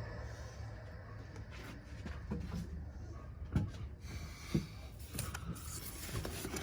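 Light handling knocks and clicks as fuel filter parts are worked by hand, two of them louder, about three and a half and four and a half seconds in, over a low steady hum.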